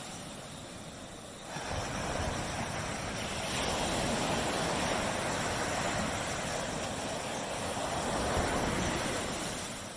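Waves breaking and washing up a beach: a surge of surf that builds about one and a half seconds in, holds, and falls back near the end.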